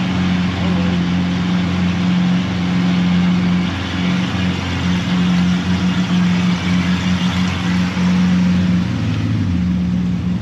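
Supercar engines idling close by while a Bugatti Chiron creeps past at walking pace: a steady, deep engine drone at an even level. A lower part of the drone shifts and fades near the end.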